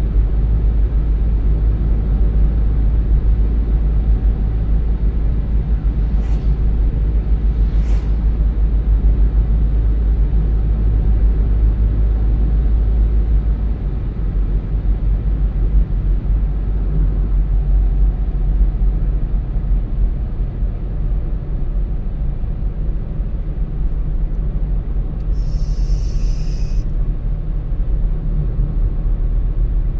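Car driving, heard from inside the cabin: a steady low rumble of road and engine noise. There are two sharp clicks and a brief high-pitched sound near the end.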